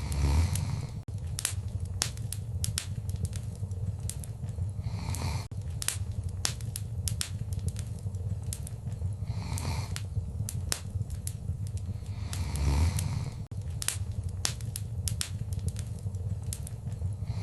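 Wood fire crackling in a fireplace: frequent sharp pops and snaps over a steady low rumble, with a soft rushing swell every four or five seconds.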